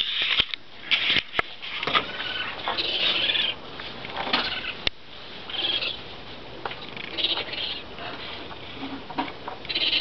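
Short, high-pitched animal cries, repeated in irregular bursts, which the uploader suspects are baby raccoons; a couple of sharp clicks among them.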